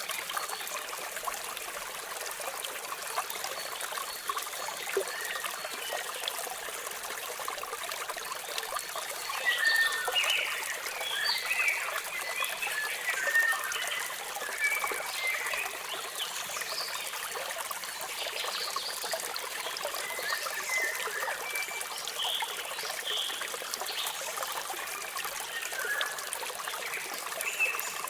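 Steady rush of falling water from a waterfall, with small birds chirping over it in short scattered calls that come thickest in the middle of the stretch and again near the end.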